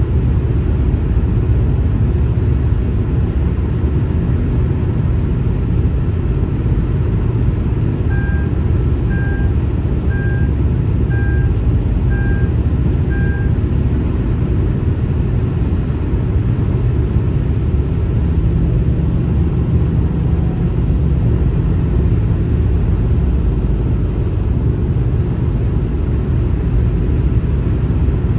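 Steady, loud, low rumble of car and highway road noise. About eight seconds in, six short electronic beeps sound evenly about a second apart.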